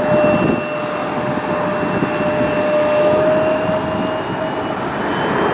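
Jet airliner engines running: a steady roar with a held whine that fades out about four seconds in, and a thin higher whine that rises slightly.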